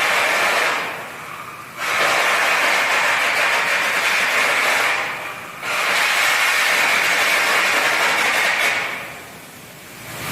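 Electric arc welding: a steady crackling hiss from the welding arc during repair and hardsurfacing passes. The arc stops briefly about a second in and about five seconds in, then stops again near the end.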